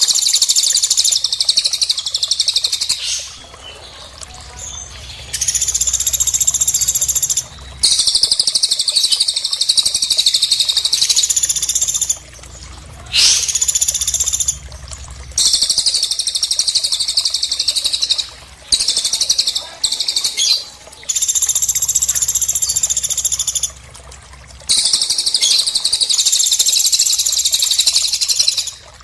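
Small songbird singing a series of high, rapid trills, each lasting one to four seconds, with short pauses between them.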